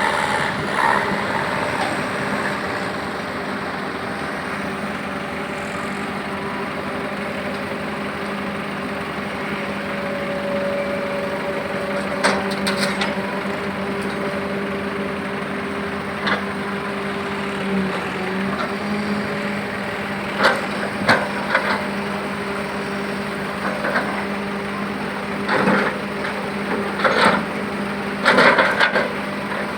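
A heavy vehicle's engine running steadily, with sharp wooden-sounding knocks and cracks starting about halfway through and growing more frequent near the end.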